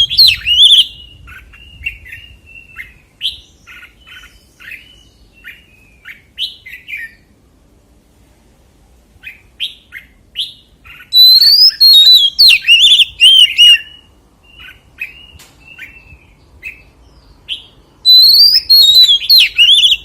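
Oriental magpie-robin singing: loud, varied whistled phrases that open with a rising note, at the start, about halfway through and near the end, with soft short chirps and squeaky notes between them.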